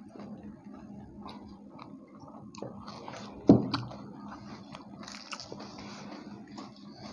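Close-up eating sounds: people chewing and biting into puri with haleem, with small crunches and mouth clicks. A single loud thump about three and a half seconds in.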